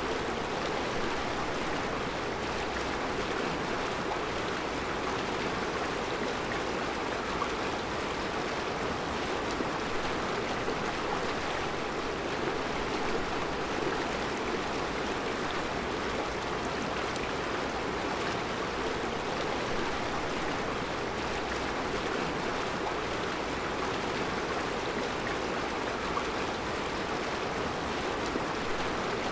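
Mountain river flowing steadily over a rocky bed of round stones: an even, unbroken rush of water.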